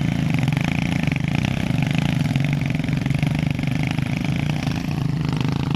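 Motorcycle engine running steadily, without revving up or down.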